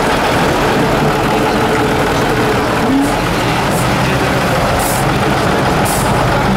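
Heavy diesel engine of an 8x8 Tatra off-road trial truck running steadily, with three short hisses in the second half.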